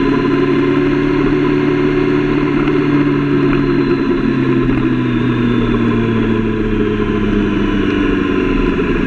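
Sport motorcycle engine running at road speed, heard from on board over steady wind rush; from about four seconds in the engine note falls slowly as the revs drop and the bike slows.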